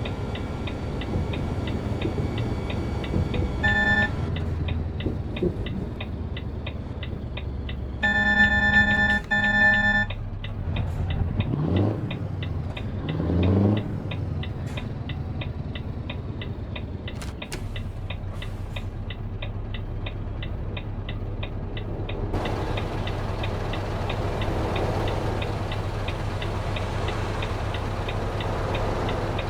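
Rapid, even ticking of a truck's turn-signal indicator, about three ticks a second, over the low hum of the engine in the cab. A pitched beep sounds briefly about four seconds in and again for about two seconds near eight seconds in. Two rising engine sweeps follow around twelve and thirteen seconds.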